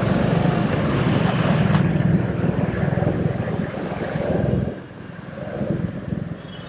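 Motorcycle riding at highway speed: steady engine drone mixed with wind rush, which drops to a quieter level nearly five seconds in.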